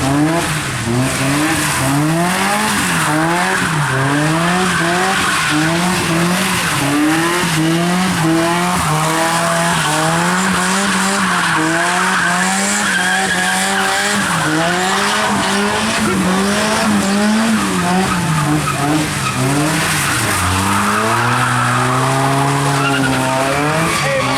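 A car doing donuts: the engine is revved up and down over and over, about once a second, while the spinning tyres skid. Near the end the revs dip briefly, then climb in one longer rise.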